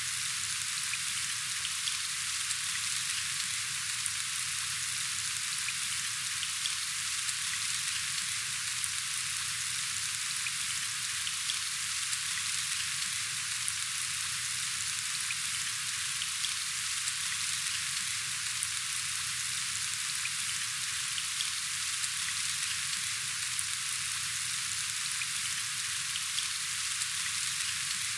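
Steady rain falling: an even, unbroken hiss with scattered faint ticks of individual drops.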